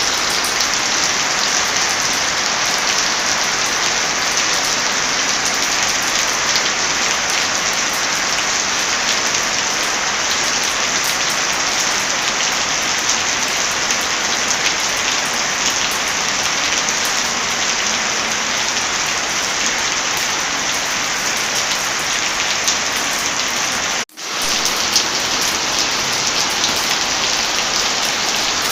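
Heavy rain falling steadily, a dense hiss with fine patter of drops. The sound cuts out suddenly for a moment about 24 seconds in, then resumes at once.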